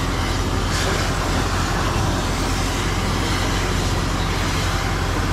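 A vehicle engine running steadily, a low hum under a continuous rushing noise.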